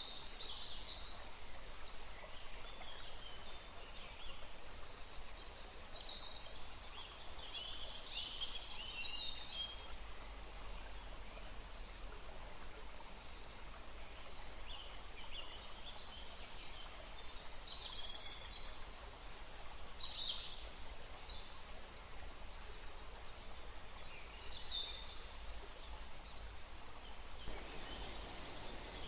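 Several wild birds chirping and trilling on and off over a steady rush of wind in the trees and running water, the rush swelling a little near the end.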